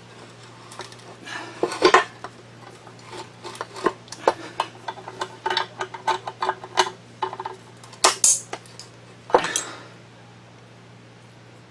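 Metal hand tools and small metal parts clinking and knocking as a drill grinder's motor is taken apart with slip-joint pliers and a screwdriver: scattered clicks and clanks, loudest about two seconds in and again around eight to nine and a half seconds in, then it goes quieter.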